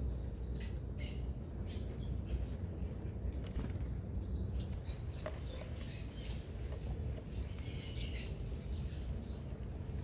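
Small birds at a feeder: short high chirps and calls scattered through, with brief wing flutters, over a steady low rumble.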